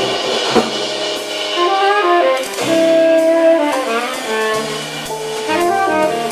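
Small jazz band playing: tenor saxophones hold and move through notes together over bass and drums, with a sharp drum or cymbal hit about half a second in.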